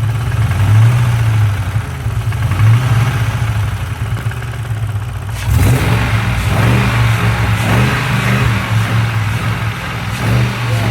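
Ford Mustang GT V8 idling and revved a little with light throttle blips, so that an engine noise thought to be from the lifters can be checked. About halfway through the revs go higher and rise and fall several times.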